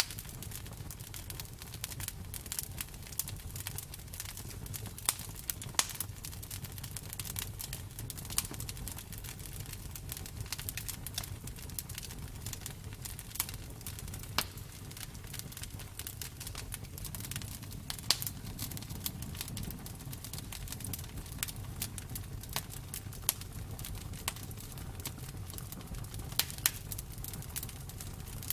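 Wood fire crackling: irregular sharp pops and snaps over a steady low rumble of the flames, with a few louder pops, one about six seconds in and one about eighteen seconds in.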